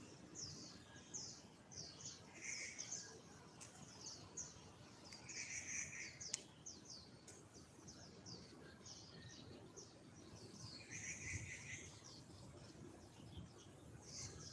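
Small birds chirping: a quick, continuous string of short, high, falling chirps, several a second, with three brief buzzy trills lower in pitch. A single sharp click about six seconds in.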